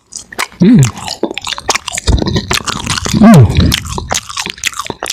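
Close-up chewing and crunching of fried french fries, many sharp crunchy clicks, with two short hummed sounds, about a second in and again past the middle.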